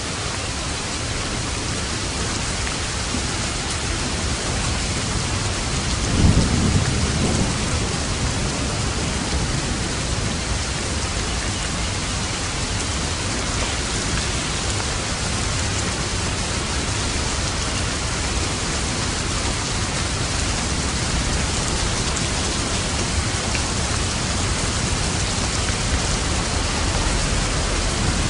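Steady heavy rain falling, with one low roll of thunder rumbling about six seconds in and fading over a couple of seconds.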